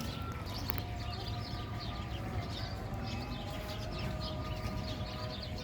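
Many small birds chirping at once in quick, short, high notes, with a few longer held whistles among them, over a steady low background rumble.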